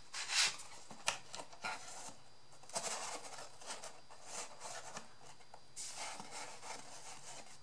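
Cardboard and paper pieces being handled and fitted together: irregular scratchy rustling and rubbing with a few light clicks, the loudest about half a second in.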